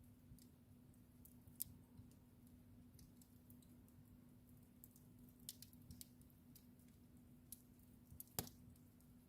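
Wood fire crackling softly: scattered small pops and snaps, a sharper one about a second and a half in and the loudest near the end, over a faint steady hum.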